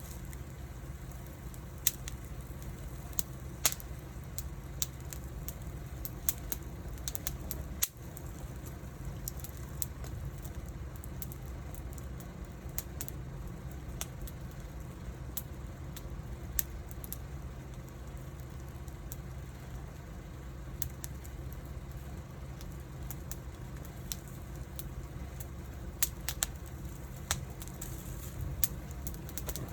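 Small wood fire crackling, with irregular sharp pops over a steady low rumble of burning.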